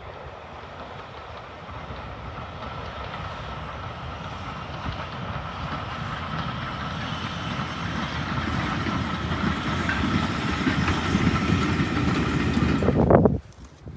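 Austerity saddle-tank steam locomotive and its coaches approaching, the rumble and wheel clatter on the rails growing steadily louder, then cut off abruptly near the end.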